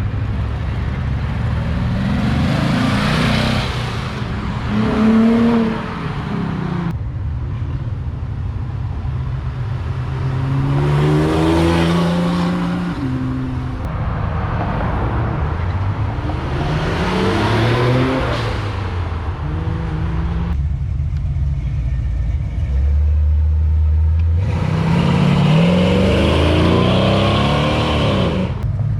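Cars accelerating hard past one after another, several separate passes, each engine revving up and shifting through the gears, with a steady low engine rumble in between.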